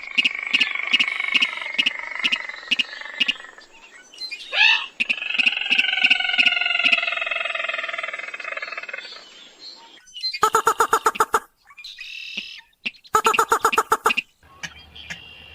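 Crake calls played as a hunting lure: fast ticking over harsh chattering calls, a sharp swooping note about four and a half seconds in, and a longer churring call. After a short gap come bursts of rapid pulsed notes, about ten seconds in and again near the end.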